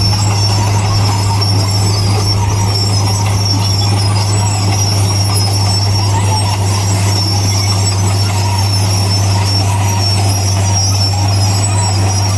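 Heavy construction machinery running steadily: a deep, unchanging diesel engine hum with a continuous high-pitched metallic squeal over it.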